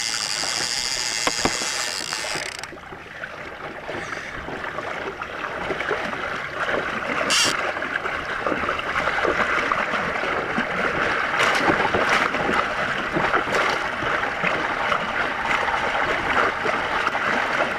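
Fishing reel's clicker drag buzzing as line pays out, cutting off about three seconds in; then water rushing steadily along the kayak's hull as a hooked shark tows it.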